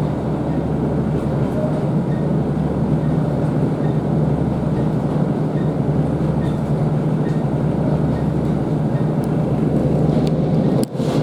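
Class 150 Sprinter diesel multiple unit running along the line, heard from inside the carriage: a steady diesel hum under wheel and rail noise with a few faint clicks, briefly dropping out near the end.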